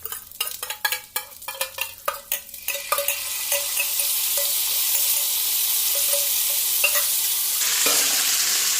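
A spatula knocks and scrapes against a pan of frying chicken pieces for the first few seconds. About three seconds in, a loud, steady sizzle takes over, as the leftover chicken stock goes into the hot rice bran oil.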